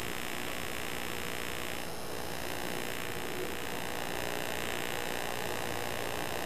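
Steady hiss with a faint electrical hum, unchanging throughout.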